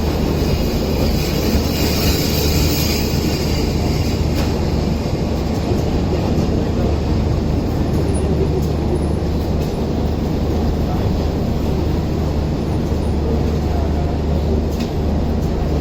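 A moving passenger train's running noise: a steady, even rumble with a strong low hum.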